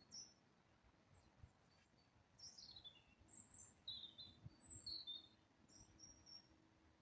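Faint wild birdsong: short high chirps and whistles, with a falling run of notes about two and a half seconds in and a cluster of chirps soon after.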